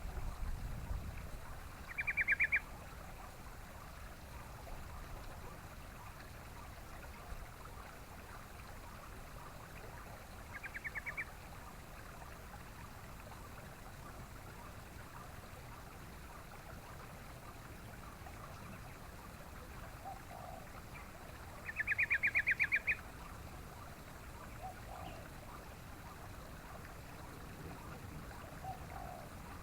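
Yellow-vented bulbul giving short, rapid chattering bursts three times, about two, eleven and twenty-two seconds in, the last and longest about a second long, over a steady background hiss. A few faint, lower calls come in the later part.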